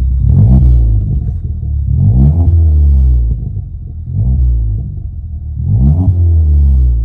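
Ford Fiesta ST-3's 1.6-litre turbocharged four-cylinder blipped four times from idle through a decat 3-inch Powerflow catback exhaust. Each rev rises and drops back to idle; the third is smaller than the others.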